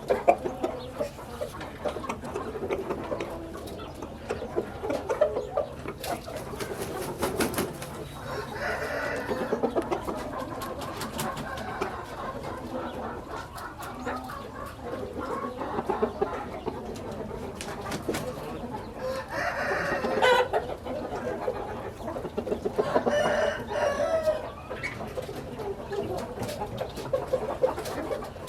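Chickens at a coop: roosters crowing about three times, with clucking between the crows.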